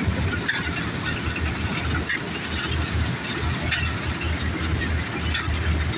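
New Holland combine harvester's engine running steadily with a low throb, a few short clicks or rattles from the machinery about every second and a half.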